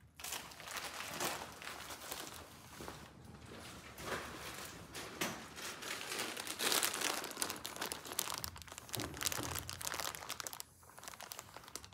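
Crinkling and rustling, with scattered light clicks, of hands rummaging through a supply of small plastic push-pin fasteners.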